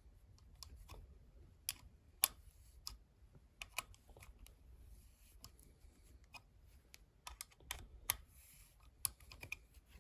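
Irregular light metallic clicks and taps of vice grips and a wrench working the nut of a boiler's pilot tubing fitting loose, over a faint low hum.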